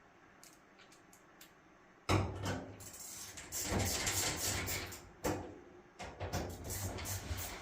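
Electric drill driving screws into a dryer's front drum support housing, in two runs: one of about three seconds starting about two seconds in, and a shorter one near the end. A few light clicks of handling come before the first run.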